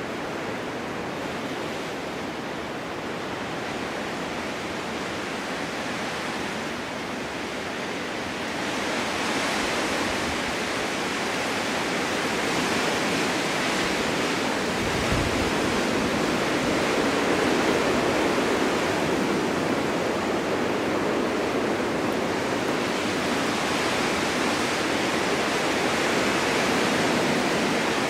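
Snowstorm wind blowing in a steady rushing hiss, swelling louder about a third of the way in and surging in slow gusts, with one brief low thump about halfway.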